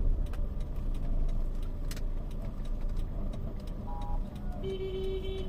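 Low, steady road and engine rumble of a Toyota Allion sedan driving in traffic. A vehicle horn sounds near the end.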